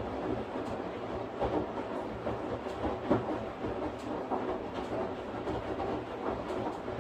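Washing machine running its cycle: a steady rumble and low hum from the turning drum, with irregular knocks and clunks, the loudest near the start and about three seconds in.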